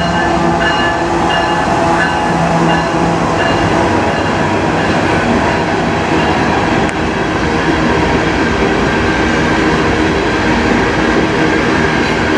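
Diesel locomotive running as it passes, its engine tones fading over the first few seconds, then covered hopper cars of a slow freight train rolling by with a steady rumble of wheels on rail.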